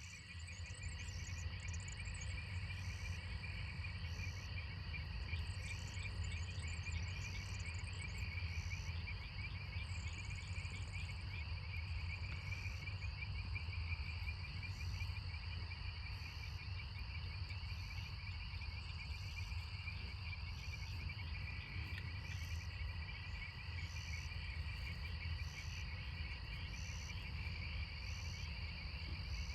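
Rain-prompted evening chorus of frogs and insects calling together: a dense, continuous trilling, with a high pulsing call repeating about once a second above it. A steady low hum runs underneath.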